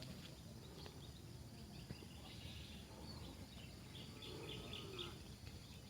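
Faint bird chirping: a quick run of short, high calls repeated over a couple of seconds, over a low outdoor rumble.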